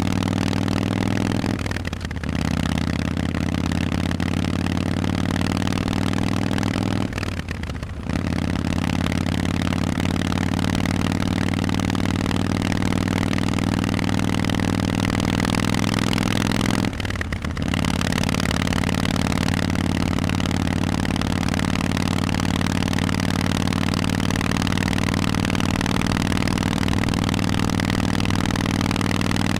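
Harley-Davidson Forty-Eight's air-cooled V-twin running through Vance & Hines exhausts while riding at a steady pace. The exhaust note drops out briefly three times, a couple of seconds in, around eight seconds and around seventeen seconds, as if for gear changes.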